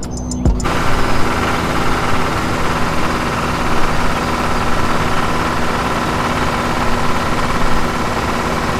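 A motor running steadily with a constant whine, starting about half a second in as the music cuts off.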